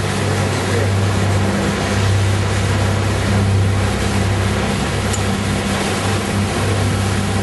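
Engine running steadily with a constant low hum, under an even rushing noise of wind and passing water.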